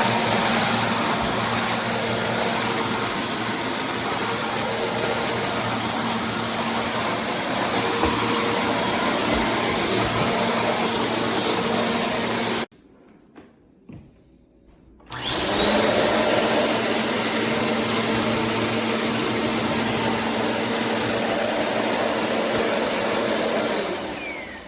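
Bissell CleanView Compact upright vacuum running, a steady high whine over its motor hum. It cuts off suddenly about halfway, starts again a couple of seconds later with the whine rising as the motor spins up, and winds down near the end.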